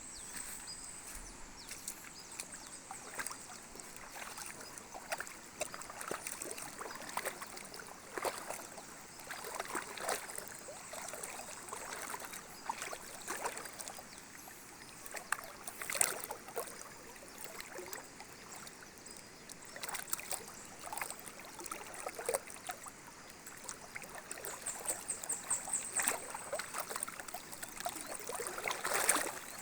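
Water of a small river running and trickling, with irregular small splashes. A faint high chirping pulses briefly near the end.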